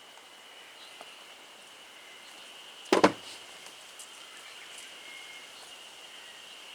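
Insects trilling steadily at a high pitch, with one sharp, loud knock, a quick double strike, about three seconds in.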